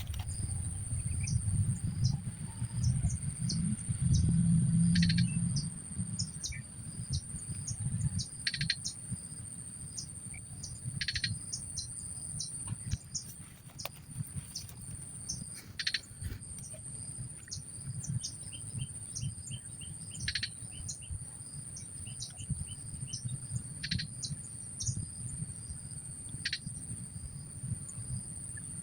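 Outdoor insect and bird chorus: a steady high-pitched insect whine with short repeated chirps and brief calls every couple of seconds. Under it runs a low rumble, loudest in the first eight seconds or so.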